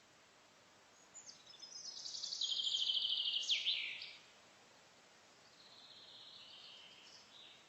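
A songbird singing: a loud, rapid trilled phrase starting about a second in, lasting about three seconds and ending in quick downward sweeps, then a fainter, shorter phrase near the end.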